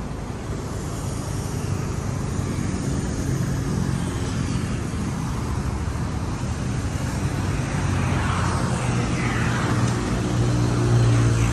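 Mercedes-Benz sedan's engine idling steadily, a low hum over an outdoor rumble that grows a little louder toward the end.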